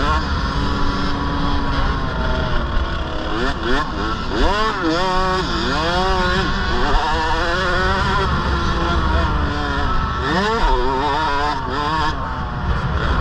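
KTM 65 mini motocross bike's small two-stroke engine revving, its pitch climbing and falling repeatedly as the throttle is worked, over a steady low rumble.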